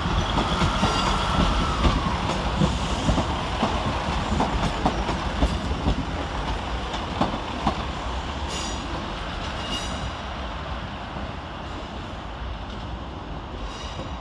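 Two coupled Class 156 Sprinter diesel multiple units arriving: a high wheel squeal in the first two seconds, then wheels clicking over rail joints and points, with the sound slowly dying away as the train comes in to terminate.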